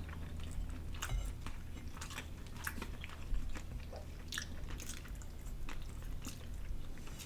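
People chewing and biting into a fried chicken and glazed donut sandwich, with scattered short mouth clicks over a low steady hum.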